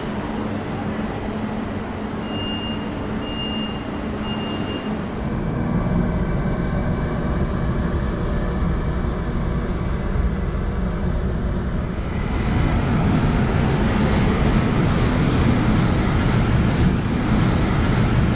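Station platform ambience with three short high beeps, then an electric freight locomotive hauling container wagons rumbles through the station, growing louder about twelve seconds in.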